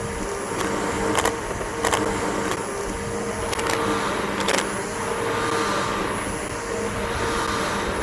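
Bissell BigGreen PowerForce upright vacuum cleaner running steadily, its motor giving a steady whine over a rushing noise, with four sharp clicks in the first half.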